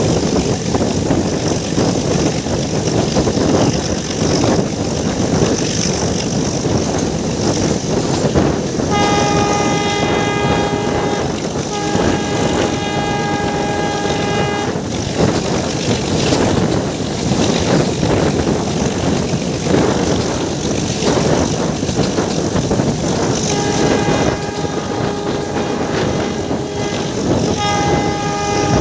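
Metre-gauge passenger train running, heard from a coach window: a steady rumble of the coaches on the track, with the locomotive horn sounding in long blasts, two about 9 s in and two more from about 23 s in, the last running on past the end.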